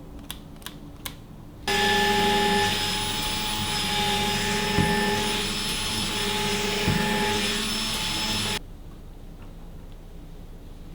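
A small electric appliance motor switched on, running at a steady loud whine for about seven seconds, then switched off abruptly. A few light clicks come just before it starts.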